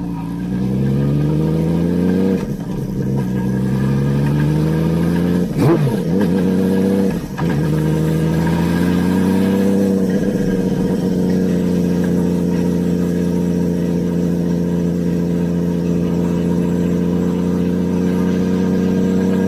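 Honda CBX 1047cc inline-six engine through a 6-into-2 stainless exhaust, rising in pitch in several pulls broken by short dips, then holding a steady note for the second half.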